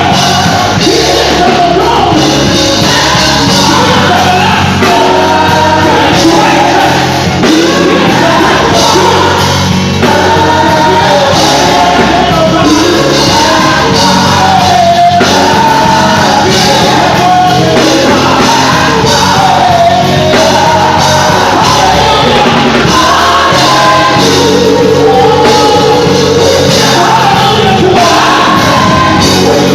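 Live gospel music: a singer leading over a full band with choir voices, loud and steady, with the sound of a large hall.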